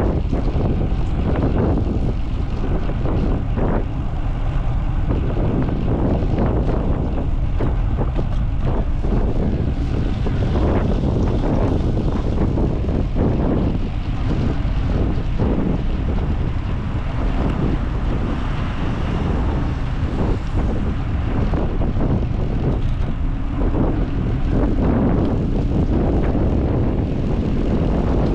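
Wind buffeting the microphone on the move, a loud, steady low rumble that flutters without letting up.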